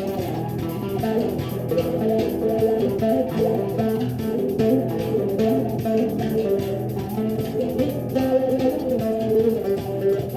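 Improvised instrumental jam on plucked bass strings: a line of shifting picked notes over a sustained low note.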